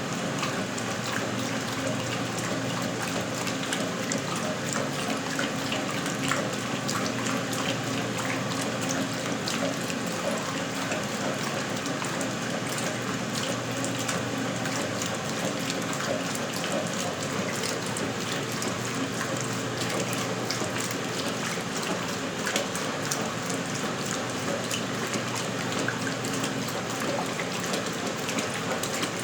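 Westinghouse Lavínia washing machine (model LWAAP6KX, built 1977) running, with a steady rush of water and a low motor hum.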